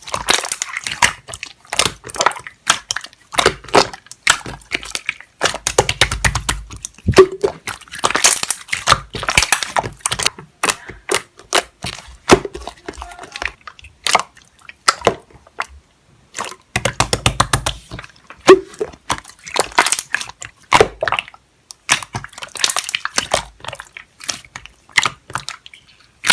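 Slime being squeezed, pressed and stretched by hand, making dense runs of wet, sticky clicks and small pops with brief pauses between handfuls.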